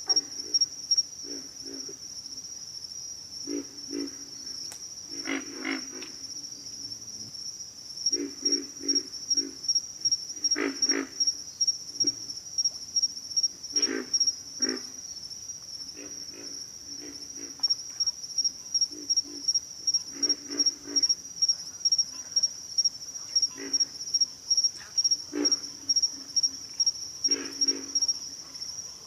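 Pig frogs calling: short low grunts, some single and some in quick runs of three or four, over a steady pulsing insect chorus.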